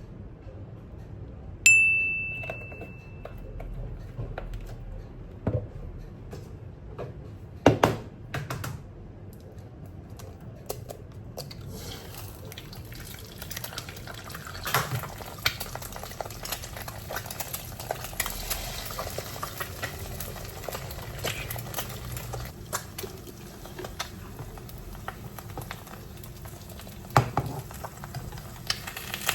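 Kitchen handling sounds: a single bright metallic ding about two seconds in, then knocks and clinks of pots, dishes and utensils. From about twelve seconds a steady hiss runs under them.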